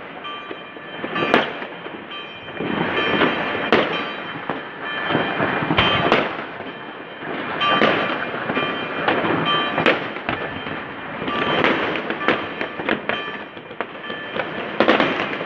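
Many New Year's fireworks going off across a city: sharp bangs and crackle at irregular intervals over a continuous rumble of distant explosions.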